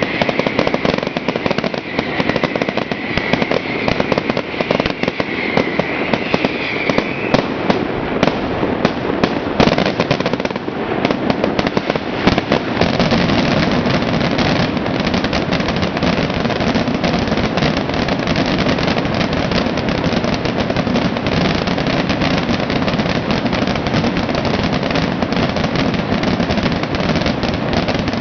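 Fireworks display: a continuous barrage of bangs and crackling that thickens into a dense, unbroken crackle about twelve seconds in. A wavering high whistle runs under the bangs for the first several seconds.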